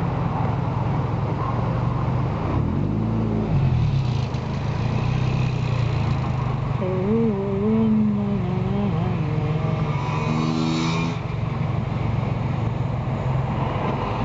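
Car driving: a steady engine and road hum, with a short rise and fall in engine pitch about three seconds in.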